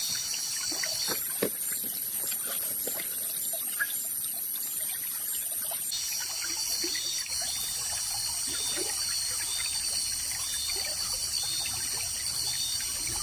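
Forest stream ambience: water trickling, with a steady, high, pulsing insect chorus that shifts its pattern twice.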